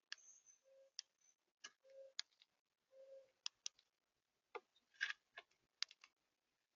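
Irregular light clicks and taps on a bird feeder, the kind made by birds or squirrels pecking seed and moving on the feeder, with three short low hums in the first half.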